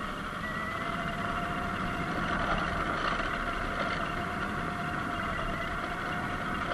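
Sur-Ron Light Bee X electric dirt bike being ridden: a faint steady electric motor whine over the hiss of wind and tyre noise.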